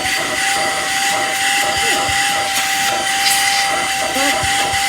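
Samsung CycloneForce upright vacuum cleaner running, its motor giving a steady high whine over a loud rush of air as it pulls suction.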